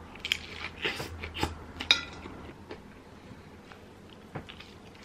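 Crunching of a hard-shell taco being bitten into and chewed, with a few sharp crisp cracks in the first two seconds, then fainter chewing.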